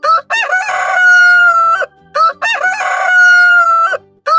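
Rooster crowing twice, each crow a few short notes and then a long held note, with a third crow beginning near the end.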